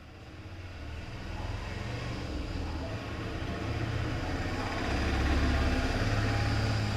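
Road traffic: a passing vehicle's engine and tyre rumble, growing louder and loudest about five to six seconds in.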